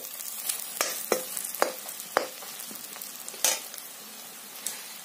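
Sliced onions and turmeric frying in hot oil in a metal kadai, sizzling steadily while a steel ladle stirs them, scraping and knocking against the pan about five times, loudest about three and a half seconds in.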